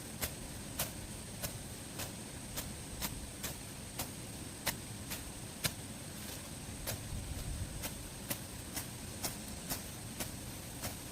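Sharp clicks or taps repeating about twice a second, a little unevenly, over a steady low rumbling noise.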